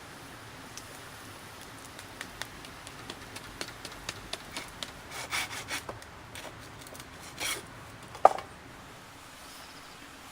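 Wood being handled: a run of small taps and clicks with a few short scraping rubs, then one sharp wooden knock near the end, the loudest sound.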